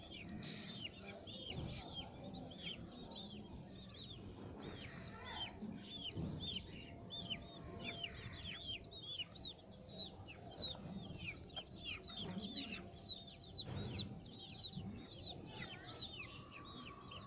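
Chicks peeping continuously: many short, high, downward-sliding peeps overlapping, with a few soft knocks from handling.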